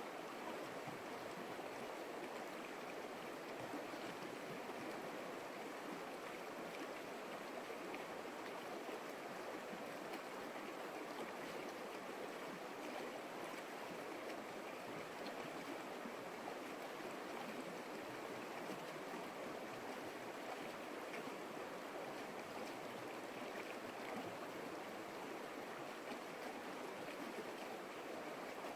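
A stream flowing, a steady even sound of running water that does not change.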